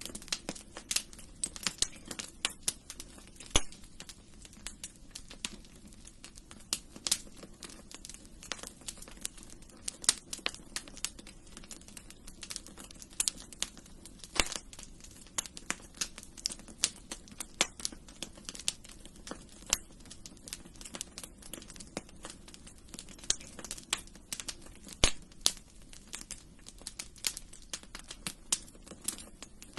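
Wood fire burning in a fireplace: a steady stream of irregular crackles and sharp pops over a low hiss of flame.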